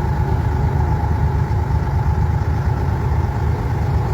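A vehicle engine running steadily: a loud low rumble with a steady higher hum over it.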